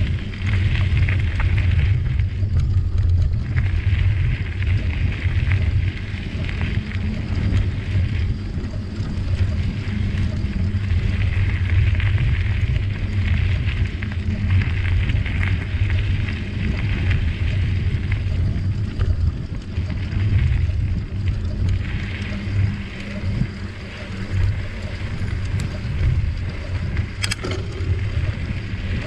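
Bicycle ride on a forest trail: wind buffeting the microphone and the tyres rolling over the ground make a steady low rumble. A higher hiss swells and fades every few seconds.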